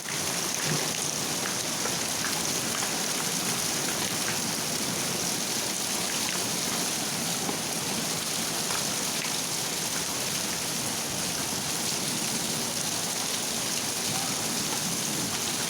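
Steady rain falling, an even hiss with faint scattered drops tapping.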